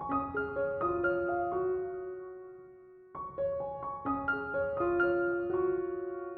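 Slow piano music: a short phrase of notes at the start and another about three seconds in, each note ringing on and fading away.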